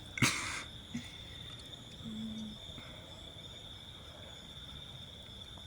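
Crickets trilling steadily in one high continuous tone, with a short, loud burst of rustling noise just after the start.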